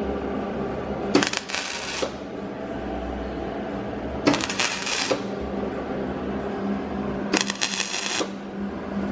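Welder laying short welds on a car's quarter panel: three bursts, each under a second and about three seconds apart, over a steady hum.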